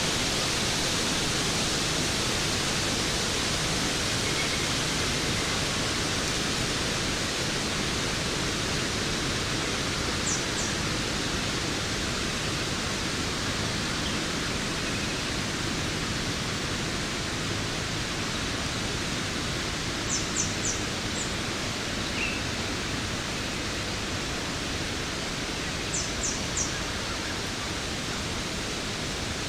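Waterfall rushing steadily, an even hiss-like roar of falling water. A few brief, very high chirps come in quick groups of three at about 10, 20 and 26 seconds in.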